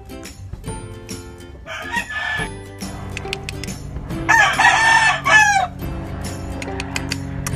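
Gamefowl rooster crowing: a short call about two seconds in, then one loud, drawn-out crow lasting about a second and a half, over background music with a steady beat.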